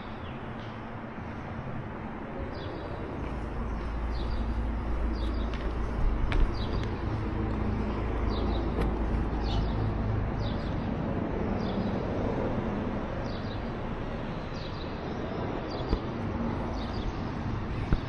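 Outdoor ambience: small birds chirping in short, high calls again and again over a low rumble that swells for several seconds early on and then eases.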